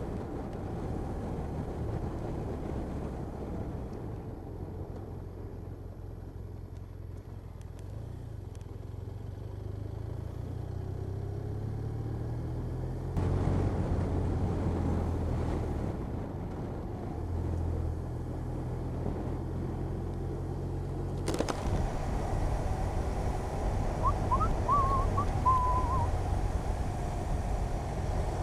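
Motorcycle engine running steadily at road speed with wind rushing over the microphone; the wind noise jumps louder about two-thirds of the way in. A short warbling whistle-like tone is heard briefly near the end.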